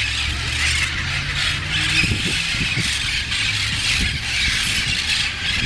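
A flock of large feral parrots screeching and squawking without a break, over the steady low hum of a car engine running close by.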